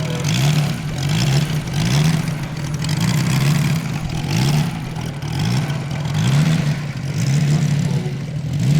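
MOKI 250 five-cylinder radial engine of a large-scale RC model airplane running hard, its low note swelling and easing about twice a second.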